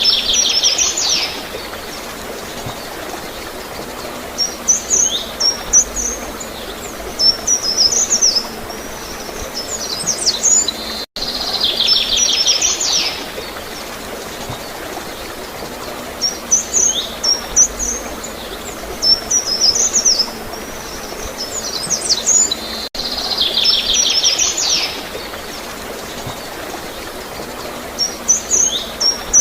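Songbirds chirping over a steady hiss of flowing water. A fast trill comes at the start, then clusters of short, quick chirps. The same roughly twelve-second stretch repeats, with a brief dropout at each join.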